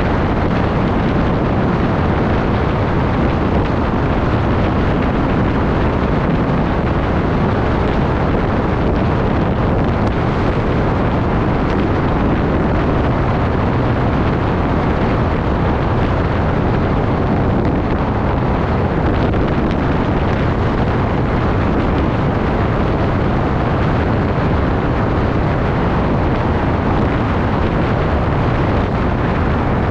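Wind blowing across the microphone during a bike ride: a steady, loud rush of noise with no let-up.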